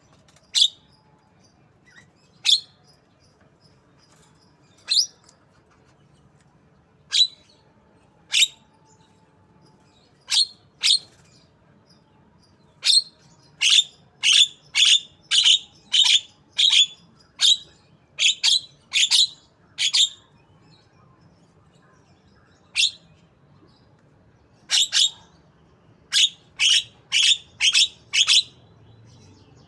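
Javan myna giving short, sharp, high call notes in imitation of a white-rumped shama. Single calls come a second or two apart at first, then quick runs of about two a second in the middle and again near the end.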